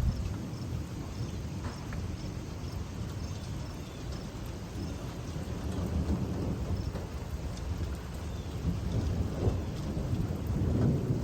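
Rolling thunder rumbling low and continuously over steady rain, swelling about six seconds in and again near the end.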